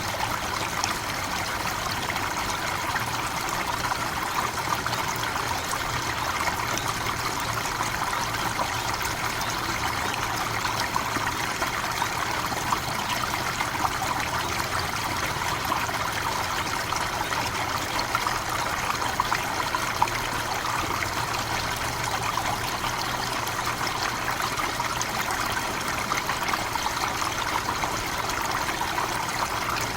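Forest waterfall: water falling and splashing in a steady rush with a fine crackle of droplets.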